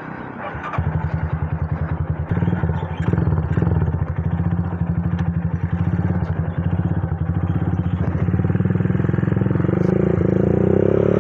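Honda CB's single-cylinder Tiger engine, bored up to 200cc, running through a 'dos' aftermarket muffler: a deep, evenly throbbing exhaust note that comes in strongly about a second in and holds steady, with the pitch rising a little near the end.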